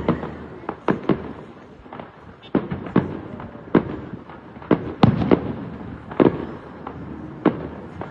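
Aerial fireworks going off in a display: an irregular string of sharp bangs, roughly two a second, each with a short echoing tail.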